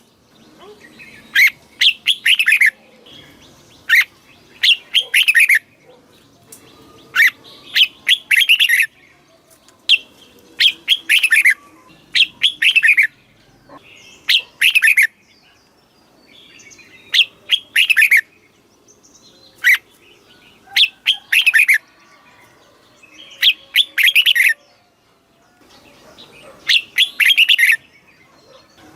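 Red-whiskered bulbul singing: short, bright phrases of a few quick notes, many sliding down in pitch, repeated every two to three seconds with short pauses between.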